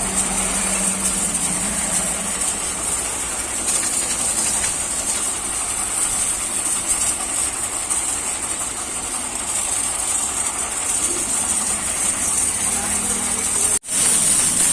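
Pressure washer spraying water: a steady high hiss over the low hum of a running engine, cut off for an instant near the end.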